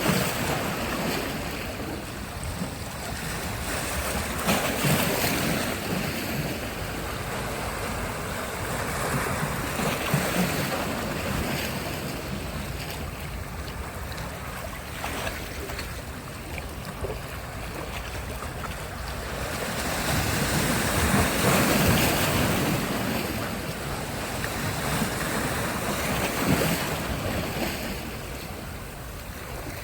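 Sea surf breaking and washing on a beach, swelling and easing every few seconds, with the biggest surge about two-thirds of the way through. Wind buffets the microphone underneath.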